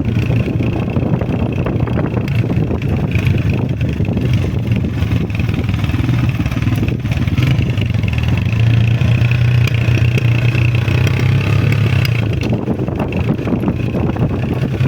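Honda CG125 motorcycle's single-cylinder engine running steadily with a low drone, which eases slightly near the end.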